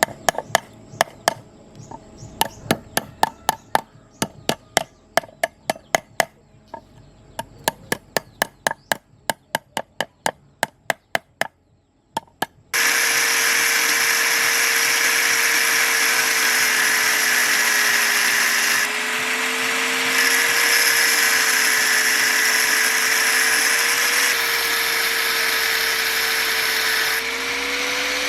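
A long run of sharp, ringing strikes, two to three a second, like hand-tool blows on metal. About halfway through, a power tool starts suddenly and runs steadily with a whine that wavers slightly in pitch.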